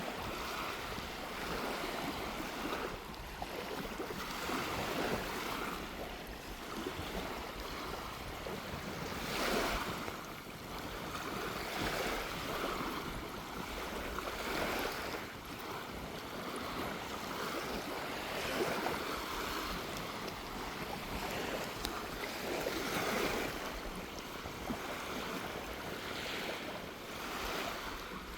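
Gentle waves washing onto a sandy beach, swelling and falling back every few seconds, with sea breeze on the microphone.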